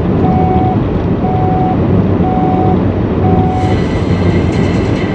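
Radio time-signal pips marking the top of the hour: short, steady high beeps about once a second, four of them, over a steady rumble of road and engine noise inside a moving car. Near the end a news theme starts up.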